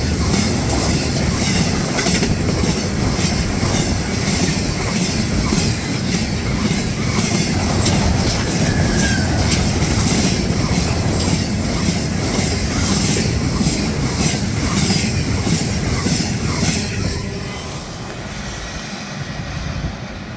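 Intermodal freight train rolling past at close range, its wheels clicking in a steady rhythm over the rail joints. The noise falls away near the end as the last cars go by.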